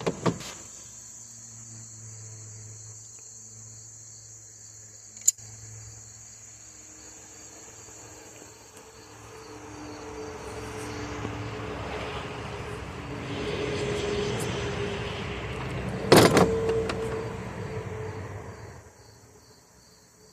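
Insects keep up a steady high trill while a vehicle goes by, its noise swelling and then fading over about ten seconds. A few sharp clicks of small parts or tools being handled, the loudest about sixteen seconds in.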